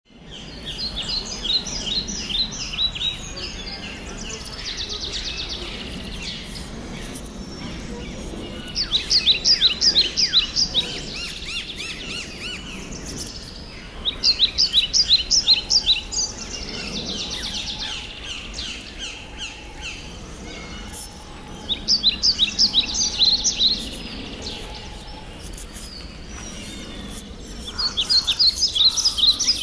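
Birdsong: a phrase of quick, falling high notes is sung five times, several seconds apart, with softer chirping in between.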